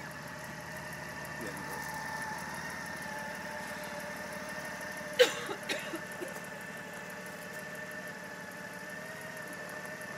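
Motorcycle engine running steadily, with a sharp click and a few smaller knocks about five seconds in.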